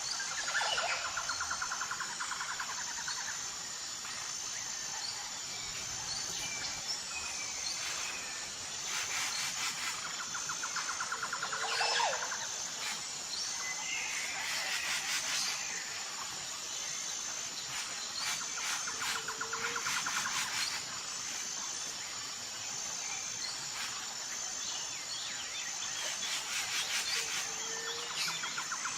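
Tropical forest ambience: a steady high-pitched insect drone under scattered bird calls and whistles. A lower rattling trill comes and goes about every eight seconds.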